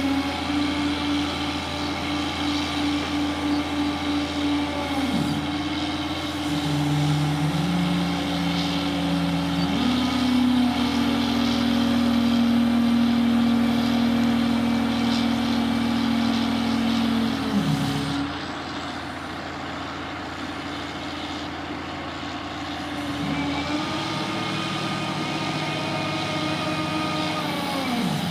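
Heavy diesel engine of construction machinery running, its pitch dropping and climbing again several times as it revs up and down under load, with a quieter idle stretch past the middle.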